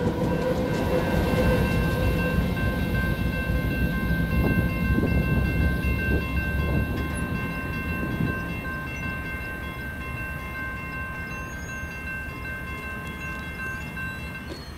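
Diesel-electric freight locomotive and train moving away: the low rumble of the engine and wheels fades over the first half. A steady high whine carries on and stops shortly before the end.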